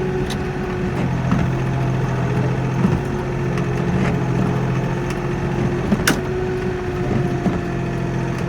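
Kioti NX4510 compact tractor's diesel engine running at a steady speed, with one sharp click about six seconds in.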